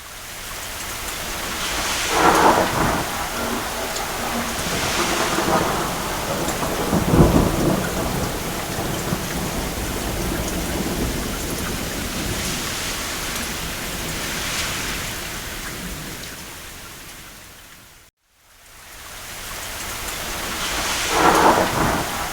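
Steady rain falling on a roof, with rumbles of distant thunder: a loud one about two seconds in and a deep rumble about seven seconds in. The sound fades out to a moment of silence near the end, then swells back in with another rumble of thunder.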